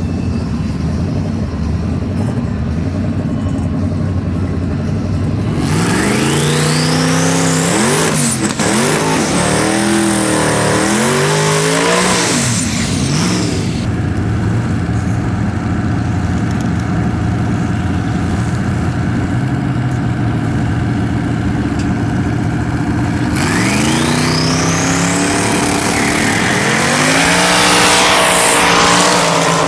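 Twin-turbo Ford Coyote 5.0 V8 in a Mustang drag car idling, then revving hard twice: about 6 seconds in and again near 23 seconds. Each time, a high whine rises in pitch over the engine.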